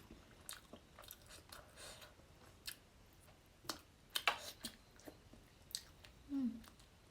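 Close-up mouth sounds of eating fish curry: wet chewing with irregular clicks, smacks and crunchy bites, loudest in a quick cluster a little past four seconds in. A short low hum about six and a half seconds in.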